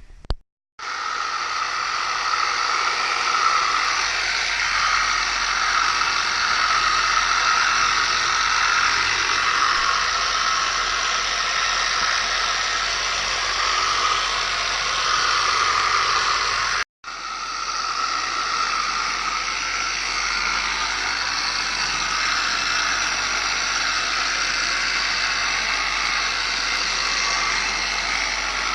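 Handheld electric power sander running steadily on the motorcycle's painted bodywork, a motor whine over an even hiss, working the scratched paint down to a smooth base before polishing. It starts about a second in, stops for a moment just past halfway and starts again.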